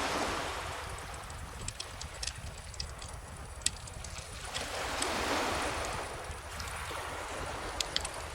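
Wood fire crackling with scattered sharp pops over gentle ocean waves washing ashore; one wave swells at the start and a larger one about halfway through.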